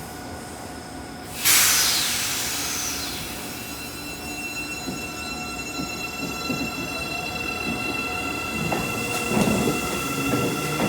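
Seibu 9000 series electric train with a Hitachi IGBT-VVVF inverter: a sudden loud hiss of air about a second and a half in, then the inverter's steady whine of several high tones, with rumble and knocks of the running gear growing near the end.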